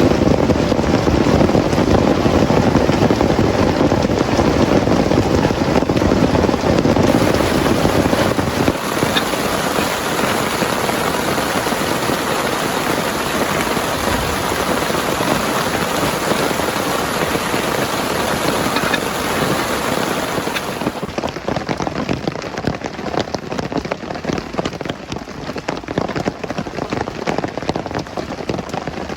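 Heavy rain pouring steadily and hitting a surface. The sound changes character about 8 seconds in, then turns somewhat quieter near the end, with separate drops more distinct.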